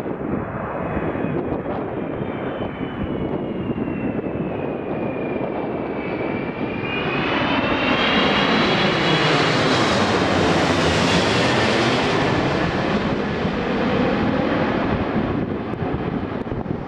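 Airbus A330-300 jet airliner passing close by on its landing approach, its engines giving a rushing roar with a high whine that dips and then rises in pitch. It swells to its loudest about eight to twelve seconds in, then fades.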